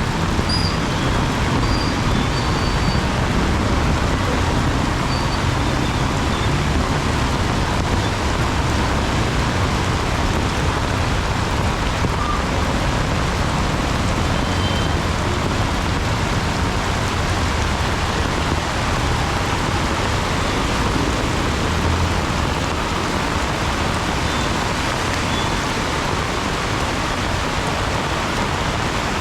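Heavy rain pouring steadily, with the low rumble of road traffic underneath.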